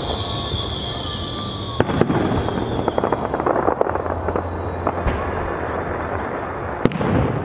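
Fireworks going off, with sharp bangs about two seconds in and again near the end and crackling in between.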